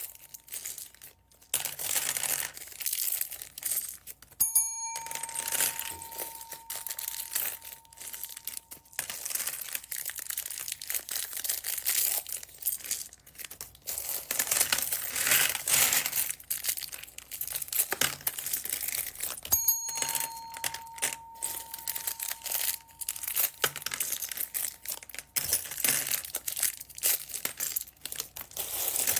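Plastic bags of beads crinkling and rustling as they are handled, in a continuous, irregular crackle. A bell-like ding rings out twice, about 4 seconds in and about 19 seconds in, each one ringing on for a few seconds.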